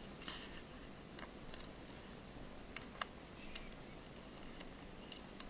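Faint small clicks and taps of tiny phone parts and tools being handled while an LED reflector is fitted into an iPhone 5: a short scrape near the start, then a few sharp, isolated clicks.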